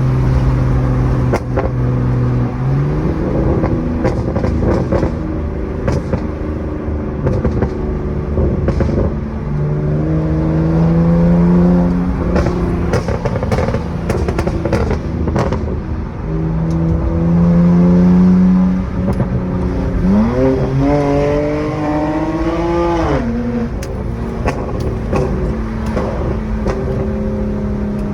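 BMW E92 straight-six (N52) engine through a straight-pipe exhaust, revving up several times, with the biggest rev near the end then a sudden drop. Sharp exhaust pops and crackles come in clusters as the revs fall.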